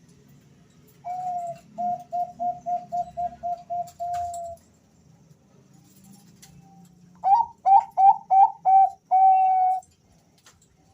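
Male zebra doves of the Bangkok perkutut type cooing in two separate phrases, a quieter one and then a louder one, as if two birds were answering each other. Each phrase is a quick run of short coos ending on a longer drawn-out note.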